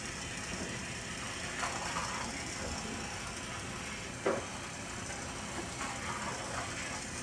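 Small electric motor and plastic gears of a battery-powered toy train running steadily, with a few clicks and clacks; the loudest is a sharp click about four seconds in.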